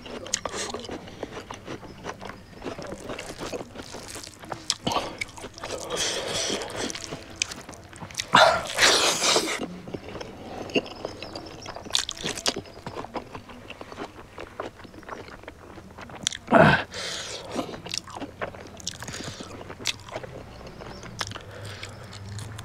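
A person eating close to the microphone: irregular chewing and mouth smacks over a meal of pork and rice, with a louder breathy burst about eight seconds in.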